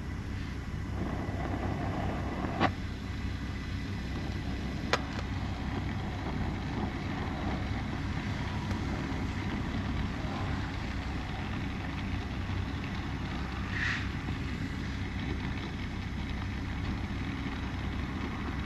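Brazing torch flame burning steadily while silver solder is flowed over a pinhole leak in a copper refrigerant line. A couple of light clicks come a few seconds in.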